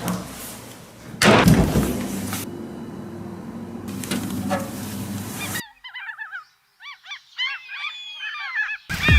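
A loud, sudden burst of noise about a second in, followed by a noisy rushing stretch; then, after the noise cuts off, many gulls calling, their short falling calls overlapping.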